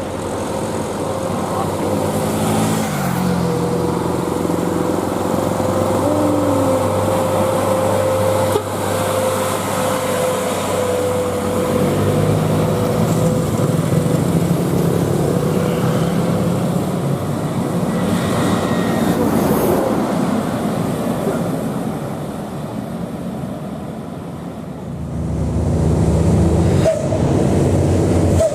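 Heavy diesel trucks climbing a steep hill, their engines running under load, with the engine note changing a few times. A steady whine sits over the engines through much of the first half.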